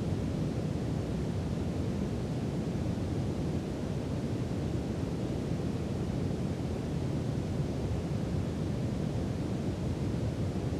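Steady brown noise: an even, deep hiss that stays the same throughout, with most of its weight in the low end.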